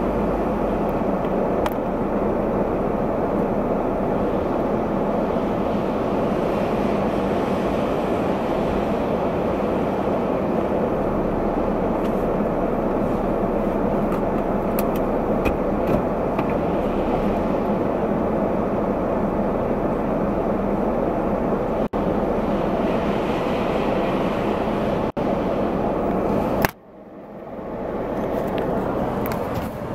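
Steady road and engine noise of a car being driven, heard from inside the cabin. The sound breaks off for an instant twice about two-thirds of the way through, then drops away briefly near the end and builds back up.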